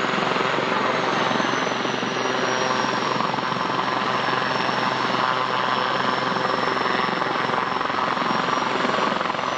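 Helicopter flying a display, its rotor chop and turbine noise running steadily, with a thin high turbine whine that dips slightly in pitch about two seconds in and rises again near the end.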